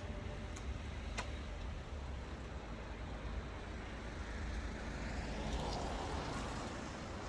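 Steady road noise of a moving car, a low rumble with a swell of louder noise about five seconds in.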